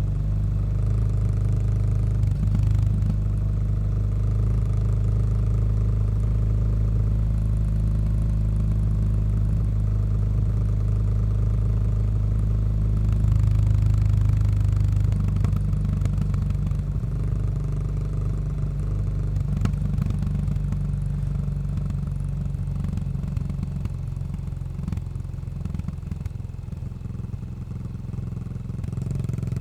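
Exhaust of a Yamaha SR400's air-cooled single-cylinder engine, fitted with a Goods tapered cone slip-on muffler, running steadily on the road. It swells a little about halfway through, then eases off and gets quieter near the end.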